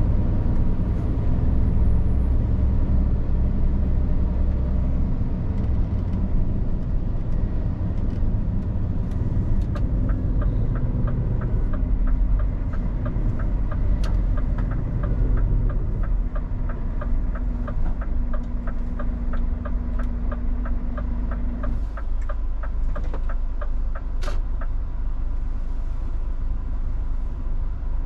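Scania R450 truck's engine running under way, heard from inside the cab. From about ten seconds in to about twenty-two seconds there is a regular ticking of roughly three clicks a second, like the turn-signal indicator. The engine note then drops.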